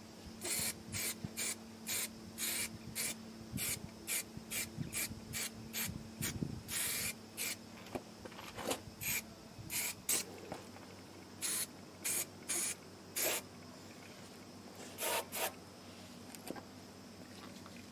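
Aerosol spray can sprayed in many short hissing bursts, about two a second, in runs broken by short pauses.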